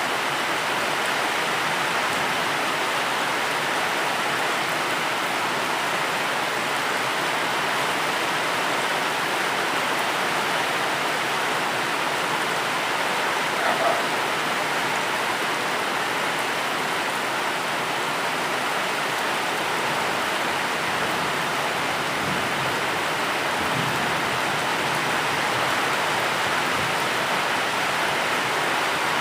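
Steady, heavy rainfall, an even hiss with no let-up.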